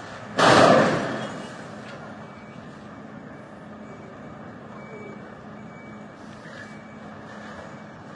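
Steady vehicle noise, broken about half a second in by a sudden loud noise that dies away over about a second.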